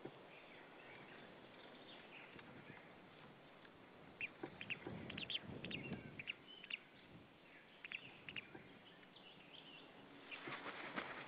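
Short, high bird calls in quick runs of a few notes, starting about four seconds in and coming again near the end, over a faint steady hiss.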